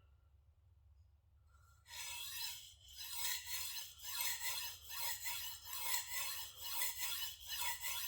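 Shigeki Tanaka gyuto's steel blade stroked back and forth across a sharpening stone, a rasping scrape repeated about twice a second. The strokes start about two seconds in, after a short near-quiet pause, and are light finishing passes on the edge.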